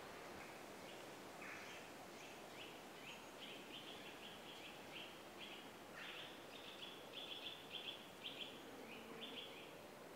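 Faint woodland bird calling: a long run of short, high chirps repeated several times a second, growing louder from about six seconds in and stopping shortly before the end.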